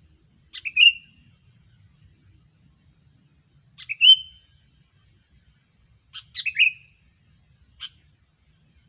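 Sooty-headed bulbul (kutilang) giving short, bright chirping call phrases, three times about three seconds apart, then a single short note near the end.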